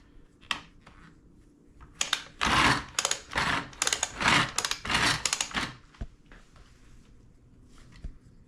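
Plastic toy monster truck playset being played with: a loud, rapid plastic rattling and clattering starts about two seconds in and lasts about four seconds, with a few small clicks before and after.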